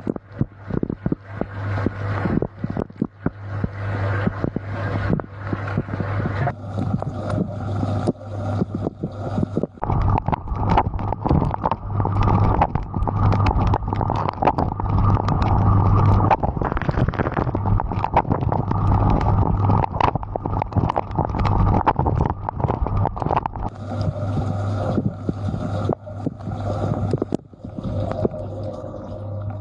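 Dishwasher running, heard from inside the tub: water from the spray arms splashing and spattering against the camera and racks over the steady hum of the wash pump. The spray gets heavier about ten seconds in and eases off near the end.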